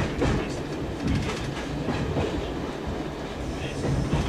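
Train wheels clicking over the rail joints above a steady low running rumble, heard from inside the train.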